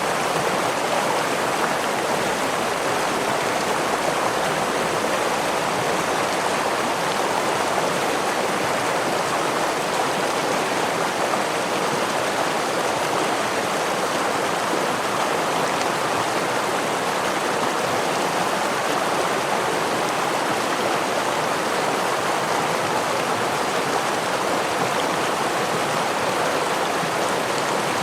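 Stream water rushing and splashing over rocks, a steady, even rush with no change.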